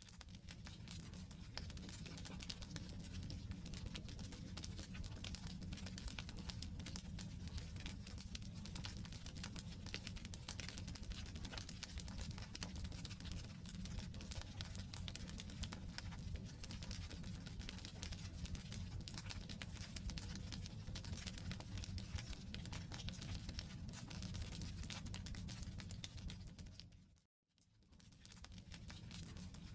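Campfire of burning firewood crackling, with dense small snaps and pops over a low steady rumble of the flames. The sound cuts out briefly near the end, then resumes.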